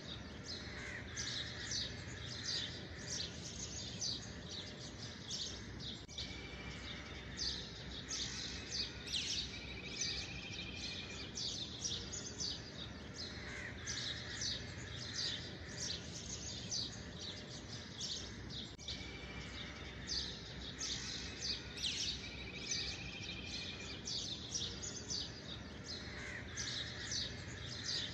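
Birds chirping: a busy, continuous chorus of quick high chirps, with a lower warbling trill breaking in every few seconds, over a faint steady low hum.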